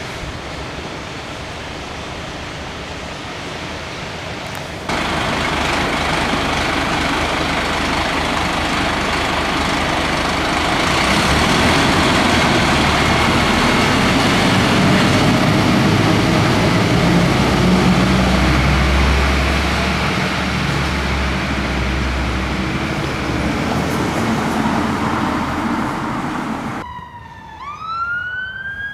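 Fire engine's diesel engine running and pulling away amid road noise, the rumble swelling partway through. Near the end, after a cut, a fire engine siren wails, rising in pitch.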